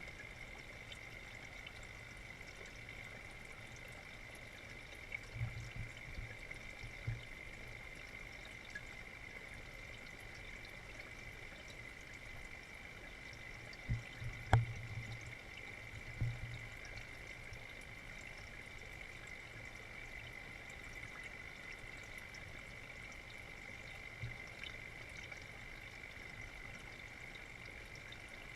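Water running steadily into an aquaponics fish tank, a constant pouring trickle, with a few brief low bumps.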